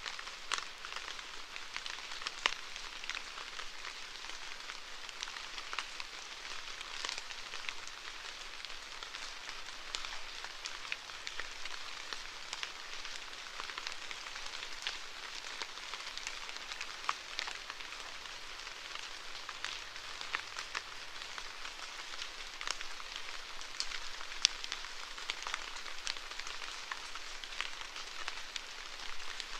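Steady rainfall, a continuous hiss scattered with many sharp, irregular taps of single drops hitting a surface.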